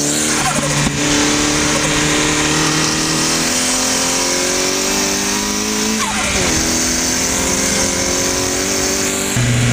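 Turbocharged Nissan CA18DET inline-four in a Locost kit car pulling hard under full throttle, the engine note climbing steadily, with wind rush in the open cockpit. About six seconds in the revs drop sharply at an upshift and climb again; near the end the sound changes abruptly to a lower, steadier engine note.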